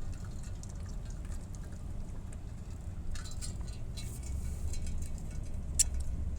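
Low steady vehicle rumble, growing louder about four seconds in, with a single sharp click near the end.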